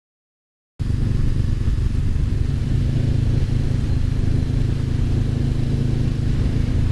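Honda CBR500R's parallel-twin engine running steadily at an even pitch while riding, with road and wind noise. The sound cuts out completely for the first second, a dropout from a loose microphone wire, then returns.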